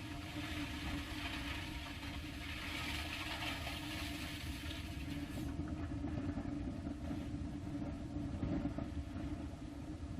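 Steady rumbling roar of an Ariane 5 rocket climbing on its solid boosters and Vulcain main engine.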